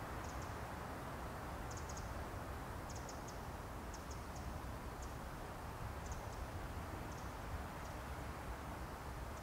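A steady low outdoor rumble, with a small bird's high, short ticking calls in quick groups of two to four, about once a second.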